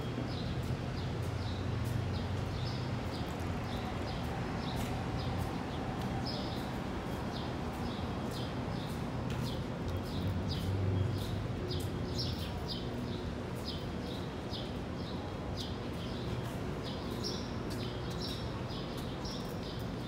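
Small birds chirping over and over in short high calls, several a second at times, over a steady low hum.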